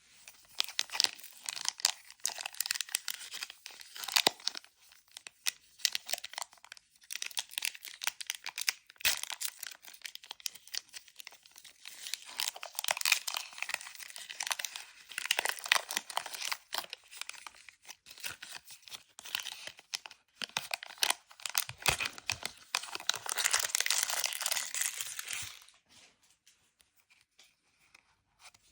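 Crinkly plastic wrapping from a Pokémon Elite Trainer Box being torn open and handled, a continuous crackling rustle full of sharp crackles that stops near the end.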